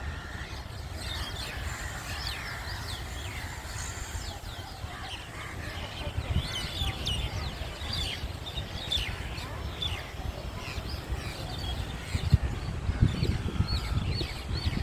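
Many birds chirping, with short, quick calls overlapping throughout, over a low uneven rumble that grows louder near the end.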